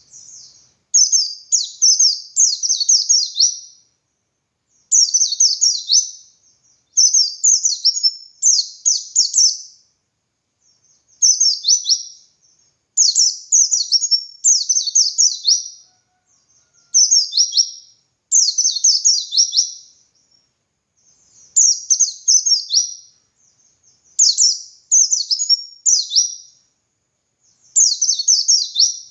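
White-eye (pleci) singing in a vigorous, long-winded 'ngalas' style: phrase after phrase of quick, high, downward-sweeping twittering notes, each burst lasting a second or two with short pauses between.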